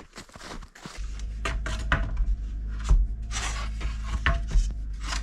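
Wooden tongue-and-groove boards knocking and clattering against each other as they are handled and set down, in irregular sharp knocks. A steady low hum comes in about a second in.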